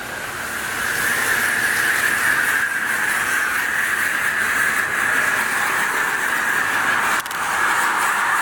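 High-pressure car wash wand spraying water, a steady loud hiss with a brief break about seven seconds in.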